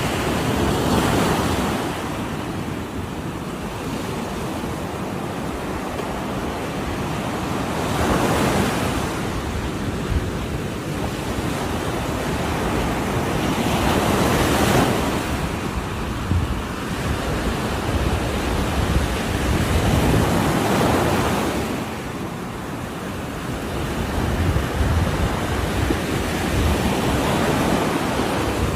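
Ocean waves crashing on the shore: a constant surf wash with a wave breaking roughly every six seconds, four in all.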